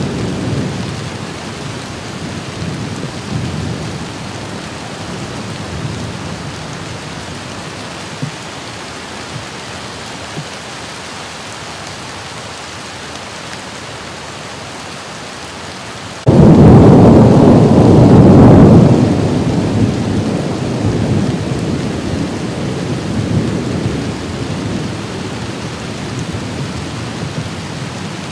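Thunderstorm: steady rain with low rumbling thunder. About sixteen seconds in, a loud thunderclap starts suddenly, lasts about three seconds, then rumbles on more quietly under the rain.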